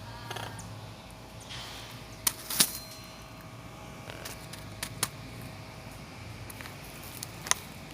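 A handful of sharp, isolated clicks or taps, the loudest a little over two and a half seconds in, over a steady low hum.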